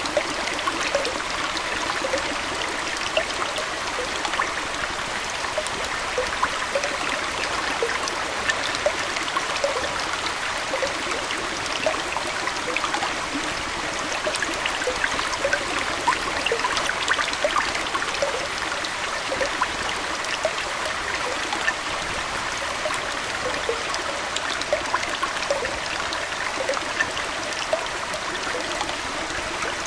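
Aquarium water flowing and trickling steadily, with many small bubbly plips scattered through it.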